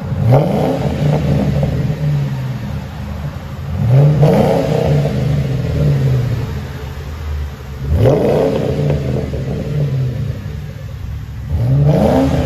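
2010 Ford Crown Victoria Police Interceptor's 4.6L V8 running through a true dual exhaust with factory H-pipe and Flowmaster Flow FX mufflers. It is revved from idle four times about four seconds apart, each rev rising quickly and dropping back to a steady idle, the last one near the end. It sounds really clean.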